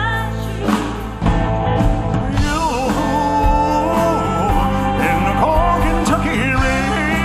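Live band music: keyboards, bass, guitar and drums playing an instrumental passage between sung lines of a country-rock ballad, picking up in loudness about a second in.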